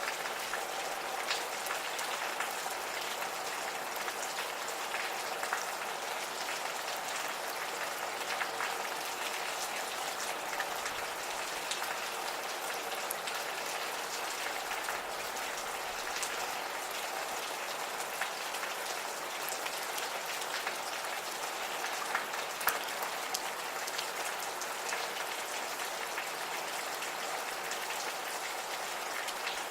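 Gentle steady rain, with individual drops ticking and pattering on a hard surface close by.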